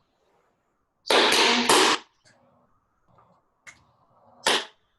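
Tap shoes striking the floor as a step is demonstrated: a quick run of about three taps about a second in, then a light tap and one sharp tap near the end.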